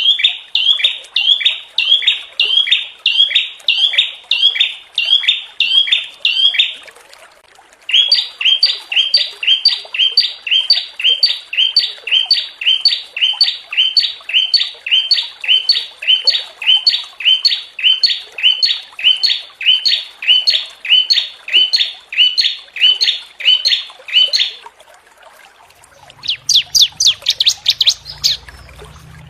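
Small songbird calls: one sharp, harsh note repeated about twice a second in long runs, with a brief break about seven seconds in. After a pause near the end comes a quicker, higher trill over a low rumble.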